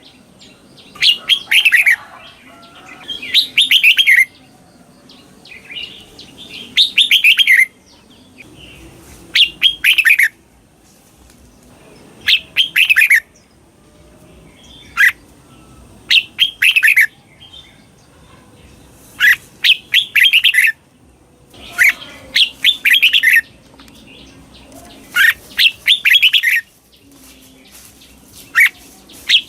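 Red-whiskered bulbul singing its doubled song: short, loud phrases of quick notes that slide down in pitch, repeated about every two to three seconds.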